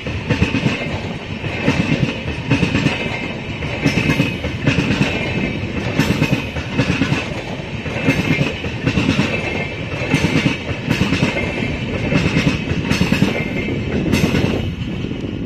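Passenger coaches of an express train rolling past at speed: a steady rumble of wheels on rail, with the wheels clattering over the rail joints in pairs of clacks every couple of seconds, clickety-clack, under a steady high whine.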